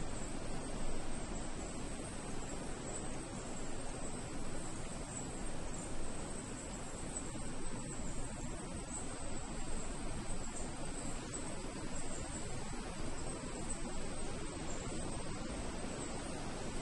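Night insects, crickets or similar, trilling steadily in a continuous high-pitched chorus over a low, even background hiss.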